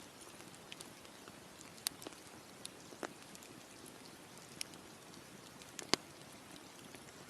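Campfire crackling: a steady soft hiss with scattered sharp pops and snaps, the loudest about six seconds in.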